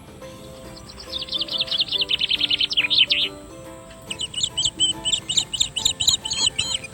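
A bird singing two quick runs of rapidly repeated chirping notes, the first starting about a second in and speeding up, the second starting about four seconds in. Soft background music plays beneath.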